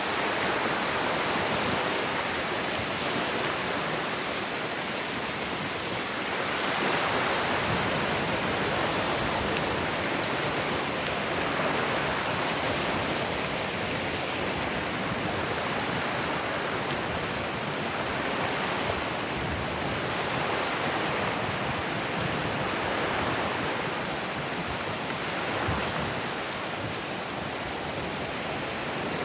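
Surf washing onto a beach: a steady rush of water noise that swells and eases every few seconds as the waves come in.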